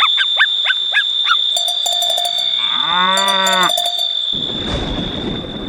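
A cow moos once, a call of about a second that rises and falls, about halfway through, with cowbells clinking just before and during it. Quick chirps come in the first second over a steady high whine, and a noisy rush sets in near the end.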